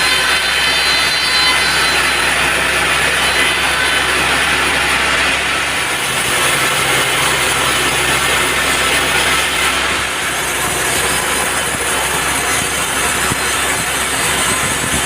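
Band sawmill running steadily, its blade cutting through an old teak pillar: a loud, even mechanical noise over a constant low hum.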